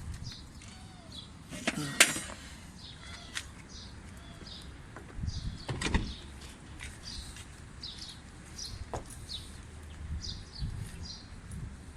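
A few sharp metal knocks and clinks from fitting a front wheel hub, the loudest about two seconds and six seconds in, with small birds chirping over and over.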